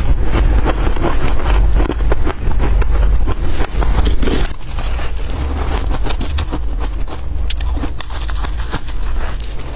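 Freezer frost being scraped and crunched: many short sharp crackles, thicker in the second half, over a steady low rumble.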